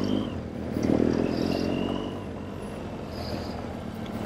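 BMW R 1200 GS boxer-twin engine running while the bike is ridden, louder for a moment about a second in. A short high tone sounds briefly about one and a half seconds in.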